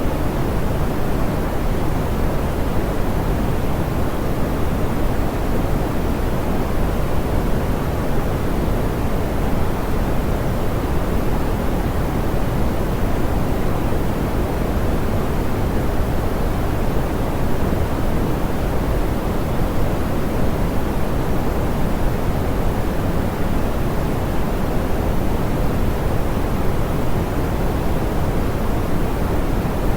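Steady, smoothed pink noise: an even hiss weighted toward the low end, softer in the highs, with no change.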